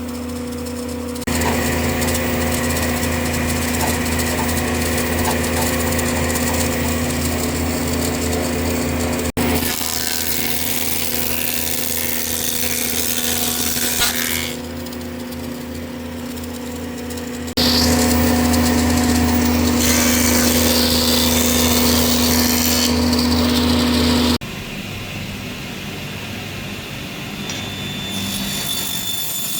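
An electric power tool running with a steady motor hum as it works wood. It comes and goes in loud stretches that start and stop abruptly several times.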